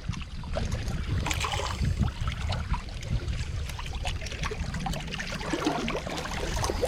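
Wind rumbling on the microphone, with scattered small clicks and ticks.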